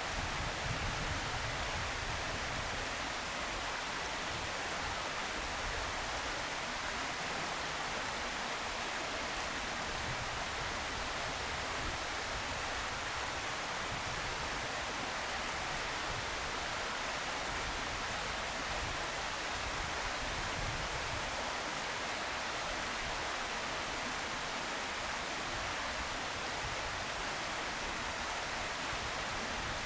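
Steady, featureless hiss at an even level, with no distinct calls or events.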